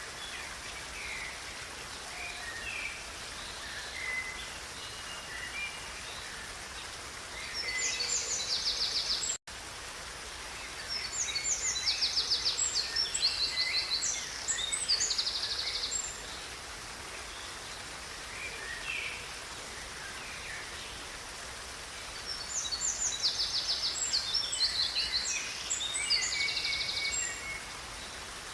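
Songbird singing three long phrases of rapid trilled notes, about 8, 12 and 23 seconds in, with scattered single chirps between them, over the steady rush of a river. The sound cuts out for an instant after the first phrase.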